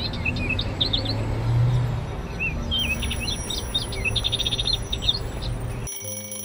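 Birdsong: many short chirps and quick trills over a steady low rumble. Near the end the birds and rumble cut off suddenly, leaving a few soft held tones.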